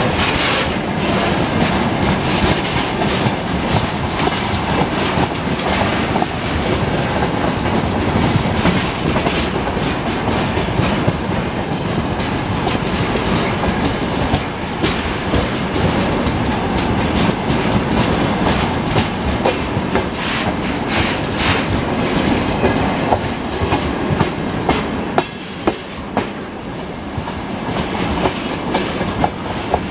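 Freight train of railway tank cars rolling past: a steady rumble with the wheels clattering over the rail joints, and a few sharper single clicks near the end.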